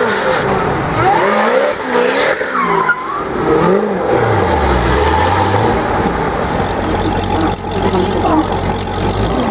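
Supercharged 6.2-litre V8 of a Corvette ZR1 with a Corsa exhaust, revving hard with pitch swinging up and down, then settling into a steadier low engine note after about four seconds.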